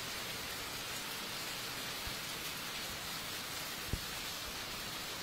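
Heavy rain falling steadily, an even hiss, with a brief low thump a little before four seconds in.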